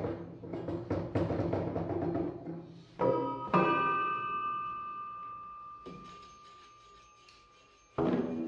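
Struck percussion on a sound-art object: a quick run of strikes with a low ringing, then two strikes about three seconds in that leave a high ringing tone slowly dying away, before loud strikes start again near the end.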